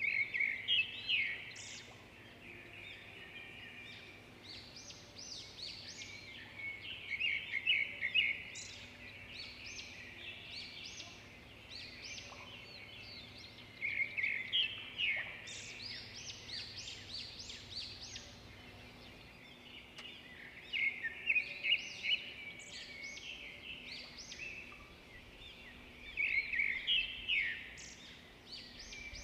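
Birds chirping in short bursts of quick, high song every several seconds.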